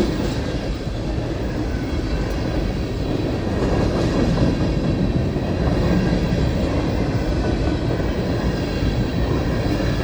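Freight train rolling past, a steady noise of railcar wheels on the rails.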